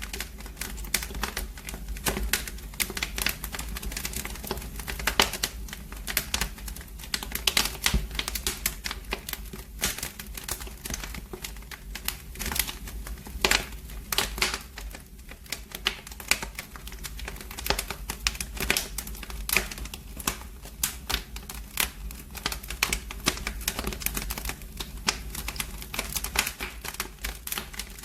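Wood fire burning in a fireplace, crackling and popping constantly and irregularly over a low steady rumble of flame.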